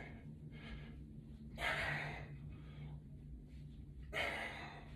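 A man breathing hard with exertion during a resistance-band workout: two loud breaths, one about a second and a half in and another about four seconds in.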